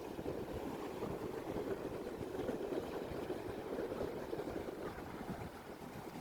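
Steady rushing noise of sea surf and wind, with no distinct events.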